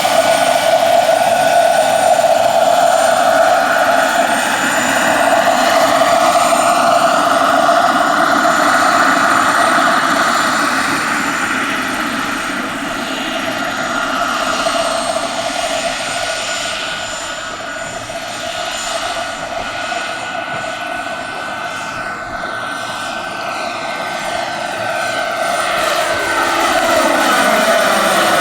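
Radio-controlled scale model helicopter flying, with a steady rotor and drive whine. It grows quieter in the middle, then louder again, and near the end its pitch sweeps down as it passes by.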